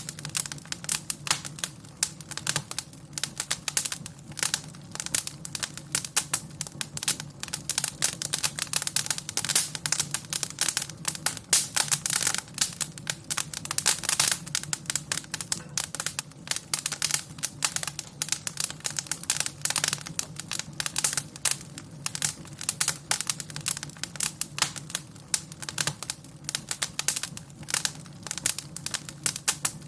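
Wood fire burning in a fireplace, crackling and popping irregularly several times a second over a low steady rumble.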